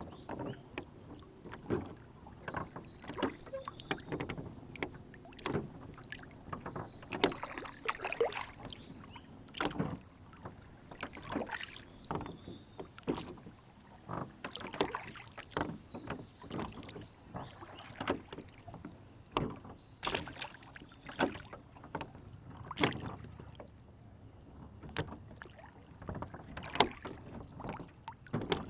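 Wooden rowboat on a lake: irregular small splashes, water slapping against the hull and knocks of the oars and boat, a second or so apart.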